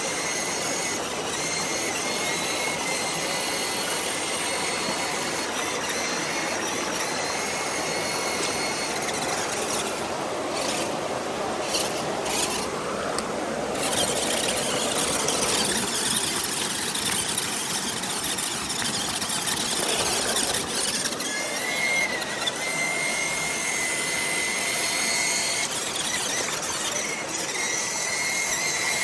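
Sherp amphibious ATV running, a steady mechanical din with high-pitched squealing whines held over it, one of them settling into a steady tone about two-thirds of the way in.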